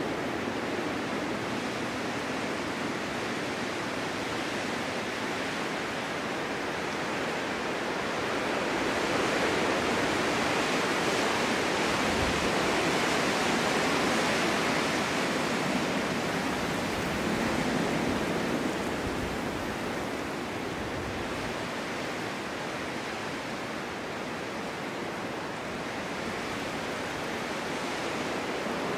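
Snowstorm wind blowing steadily, a continuous rushing that swells in a long gust about a third of the way in and again just past the middle, then eases.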